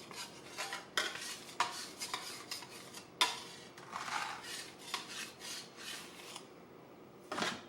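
Light clinks, knocks and scrapes of kitchenware on a countertop as shaped sourdough is handled into a proofing basket, the sharpest knock about three seconds in.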